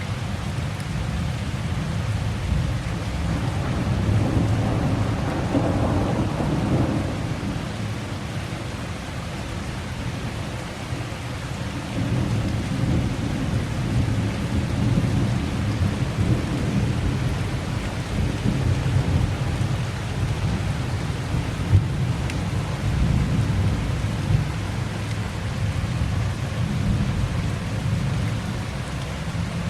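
Heavy rain falling steadily while thunder rumbles on and off, swelling and fading several times. There is one short sharp crack about two-thirds of the way through.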